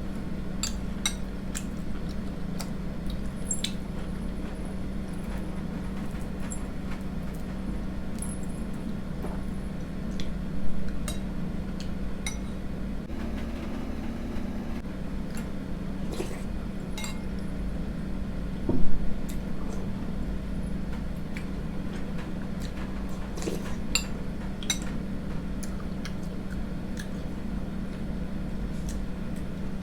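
A spoon clinking and tapping against a bowl during eating, in scattered light clicks, with two louder knocks about a third of the way in and again past the middle. A steady low hum runs underneath.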